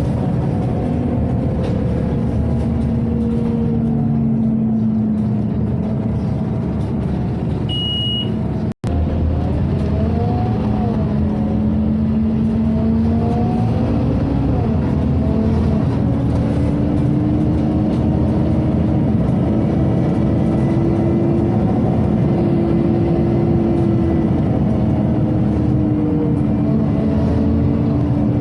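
Scania OmniCity city bus heard from inside the cabin, its engine and ventilation running as it drives, the engine note slowly rising and falling with speed. A short high beep sounds once about eight seconds in.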